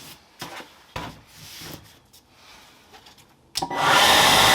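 A few faint knocks, then about three and a half seconds in a Craftsman electric leaf blower is switched on and comes up to full speed with a loud, steady rush of air over its motor whine.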